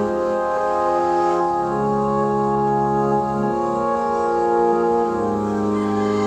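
Music with held organ-like keyboard chords that change every second or two, played through a boAt Aavante Bar 1550 soundbar with its subwoofer during a sound test.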